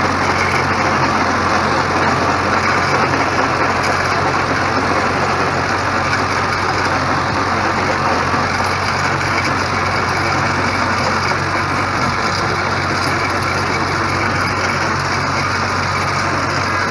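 New Holland Ghazi 65 hp tractor's diesel engine running steadily, with no change in speed.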